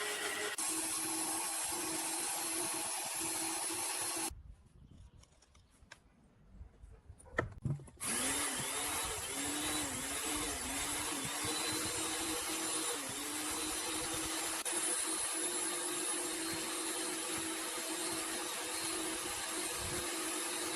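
Handheld electric power tool running, cut off about four seconds in and started again about four seconds later. After the restart its pitch dips and recovers several times as it bites into the work.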